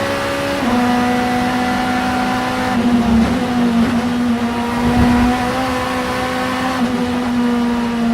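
Vauxhall Vectra Super Touring race car's 2-litre four-cylinder engine running hard at high, nearly constant revs, with a small dip in pitch about half a second in and a slight fall near the end.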